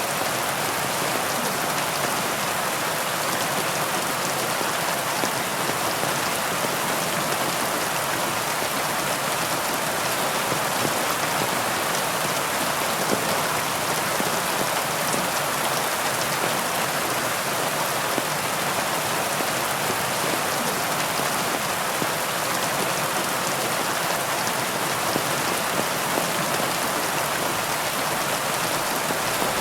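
Heavy rain falling steadily, a dense even hiss full of fine drop patter.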